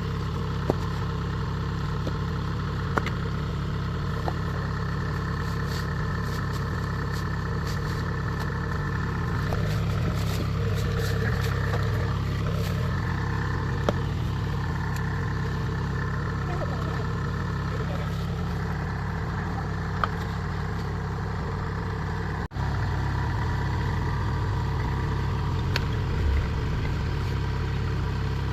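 Diesel engine of a Kubota DC70 Plus rice combine harvester running steadily, with a few light clicks and a momentary break in the sound about twenty-two seconds in.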